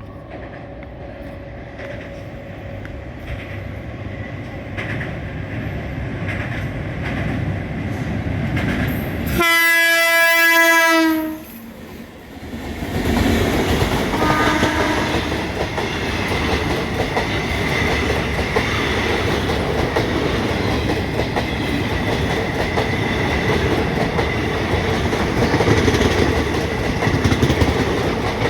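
A train approaching and growing steadily louder, then a long horn blast about ten seconds in and a shorter, fainter horn note a few seconds later. The train then runs past with its wheels clattering over the rail joints.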